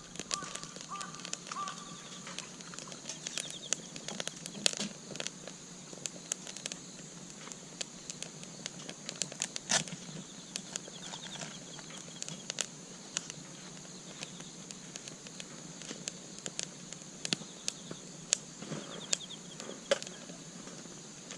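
Wood campfire crackling, with irregular sharp pops and snaps over a steady hiss. A few short, rapid chirping trills come through now and then.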